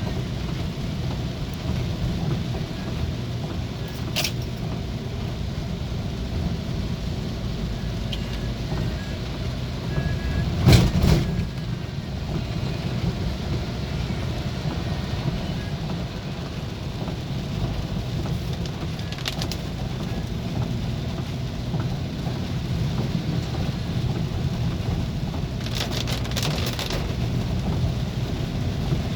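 Heavy rain with a vehicle travelling through it: a steady low rumble of rain and road noise. A few sharp knocks cut through it, the loudest about eleven seconds in.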